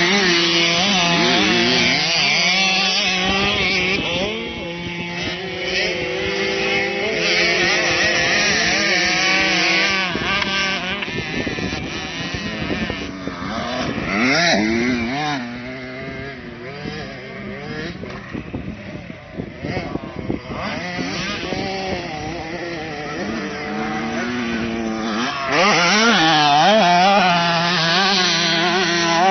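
Motocross bikes running on a track, several engines overlapping and revving up and down in pitch as riders accelerate and shift. They are loudest near the start and again near the end, and fainter in between.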